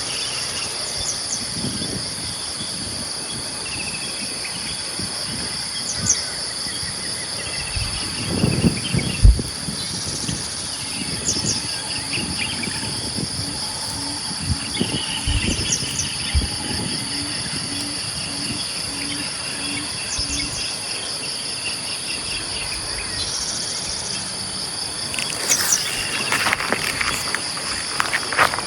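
Insects calling: a continuous fast pulsing trill and a higher steady buzz, with scattered bird calls and chirps over them. In the middle, a low note repeats about twice a second for several seconds, and a few low thumps come about a third of the way in.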